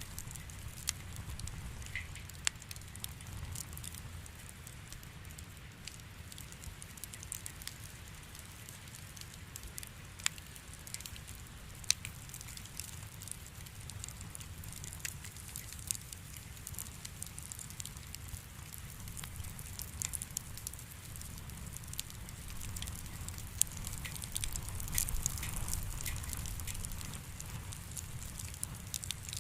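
Wood campfire burning: a low steady rumble of flame with scattered sharp crackles and pops from the burning logs, a few of them louder, growing busier near the end.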